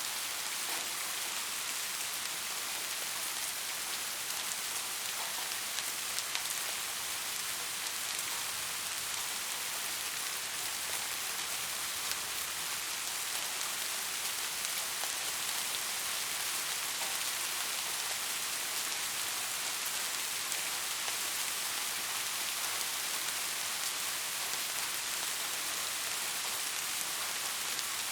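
Steady rain falling, an even hiss with tiny ticks of individual drops, constant throughout.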